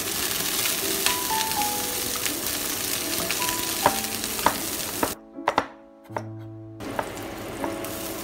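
Ginger slices and dried chilies sizzling in hot oil in a wok, stirred with a wooden spatula that knocks against the pan twice about halfway through. The sizzle cuts out for about a second and a half past the middle, then comes back.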